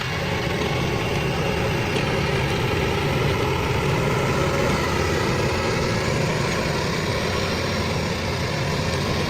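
Engine of a stump-removal machine running steadily.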